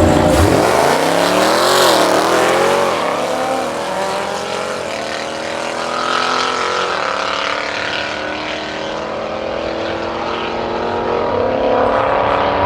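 Modified performance car's engine accelerating hard through several upshifts, its pitch climbing steeply and dropping back at each gear change.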